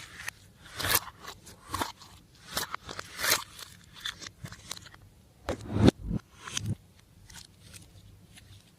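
Slime being worked by hand, mixed and pressed: an irregular run of short sticky pops and crackles, about a dozen, thinning out near the end.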